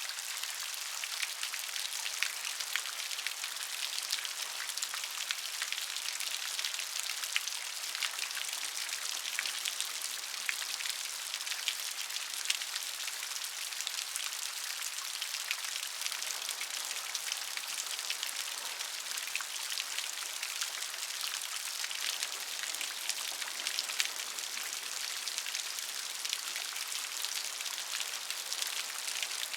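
Steady rain falling, with many fine drop ticks spattering on a surface.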